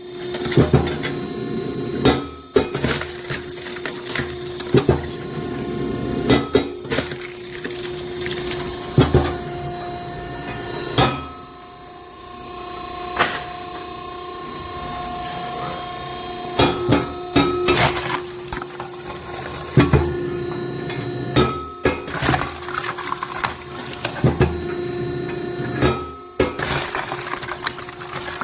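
Hydraulic log splitter (SSLJ100-600H) running with a steady hum, while sharp cracks and knocks come every one to three seconds as its cross-shaped blade splits green oak rounds. A higher whine is held for a few seconds near the middle.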